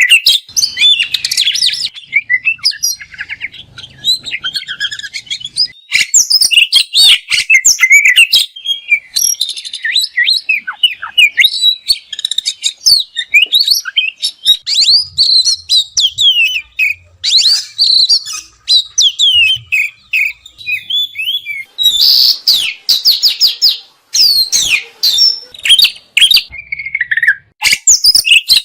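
Oriental magpie-robin singing a loud, continuous, varied song of quick whistles, trills and rapid sharp clicking notes, the fast 'shot' phrases prized in contest magpie-robins.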